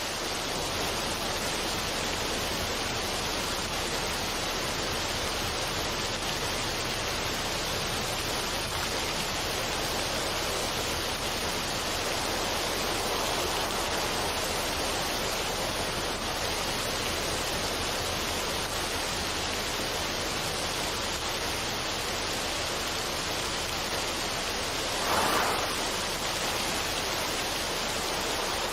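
Steady water ambience: an even, unbroken rushing hiss with no tune or rhythm, swelling briefly a few seconds before the end.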